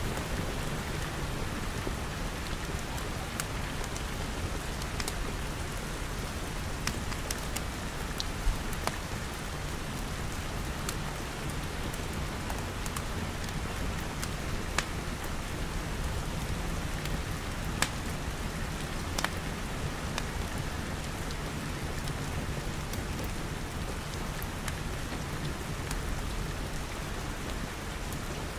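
Steady rain pattering on glass walls and a glass roof, with scattered sharp clicks now and then.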